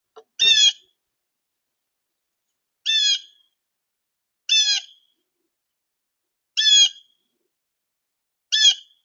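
A bird calling five times, each call short, roughly every two seconds.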